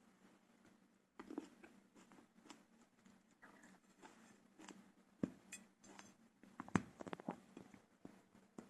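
A cat chewing grapes: faint, irregular small clicks and taps, with the sharpest about five and seven seconds in.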